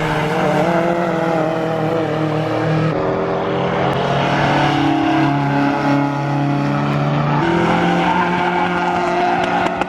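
Rally car engine running loudly under load, its note holding steady and then shifting pitch in steps.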